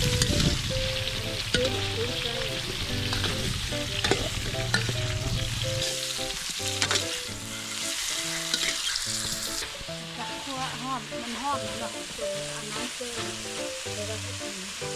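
Vegetables and song-i (matsutake) mushrooms sizzling as they are stir-fried in a hot pan, stirred with scattered clicks of the utensil against the pan. The sizzle thins a little about two-thirds of the way through.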